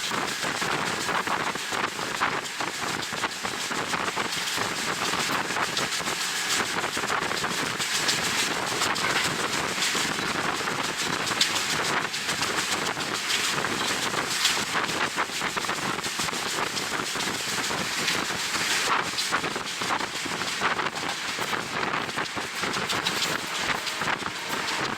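Wind rushing and buffeting over an action camera's microphone at the window of a moving train, with the train's running noise beneath it.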